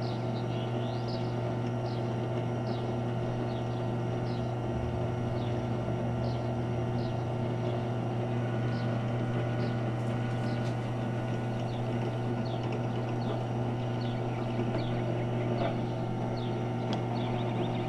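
Small benchtop drill press running steadily while a center drill bit starts holes in the pillars of a diecast Matchbox car body, with short high squeaks about once a second.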